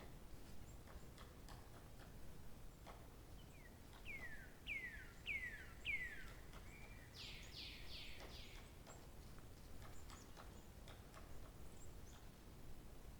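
A songbird calling: a run of four clear whistled notes, each sliding downward, then a quicker run of higher downward-sliding notes, over faint background noise with scattered small clicks.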